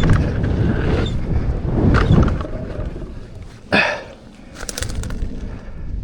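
Outdoor rumble and rustle with wind buffeting the microphone. There is a single sharp knock just under four seconds in, followed by a few brief crackles.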